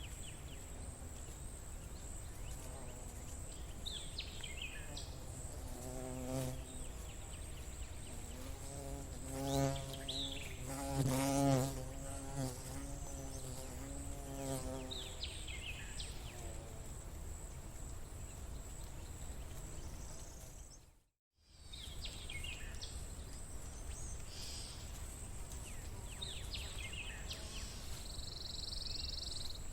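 Outdoor nature ambience: a fly buzzing close by, swelling and fading between about 6 and 15 seconds in and loudest near the middle, over a steady high whine and short falling bird chirps every few seconds. The sound cuts out to silence for a moment about 21 seconds in.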